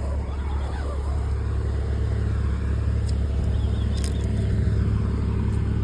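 Steady low drone of an idling vehicle engine, with a couple of faint light clicks about three and four seconds in.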